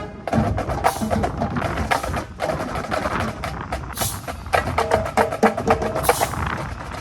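Band music at practice: rapid percussion clicks and strikes over a few held notes, with steady wind rumble on the microphone.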